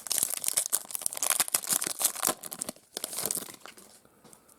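A trading-card pack's wrapper being torn open and crinkled: a dense run of crackling for about three and a half seconds that then fades out.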